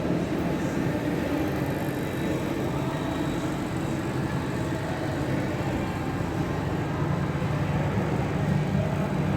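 Steady running noise of a vehicle: a low engine hum with a constant rumble, unchanging throughout.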